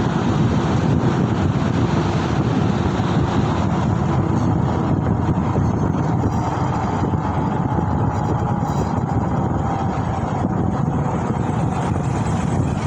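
Steady wind rumble on the microphone mixed with road and traffic noise while riding, with a faint tone that falls slightly in pitch around the middle.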